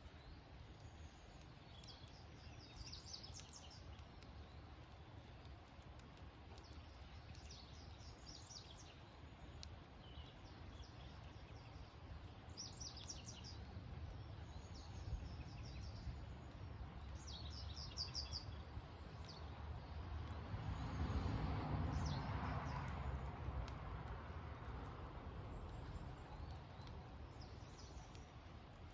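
Insects chirping in short trains of rapid high pulses every few seconds, over the faint crackle and low rumble of a campfire. A rushing swell builds and fades about 20 to 25 seconds in.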